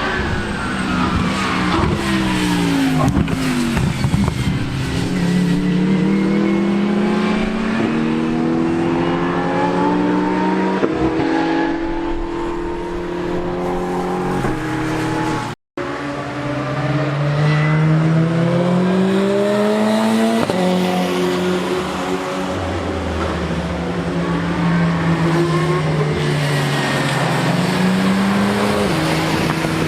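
Unsilenced race car engines at full throttle, the pitch climbing steadily and then dropping sharply at each upshift, several times over. Near the start the pitch falls away as a car passes, and about halfway the sound cuts out for a split second before another car is heard accelerating.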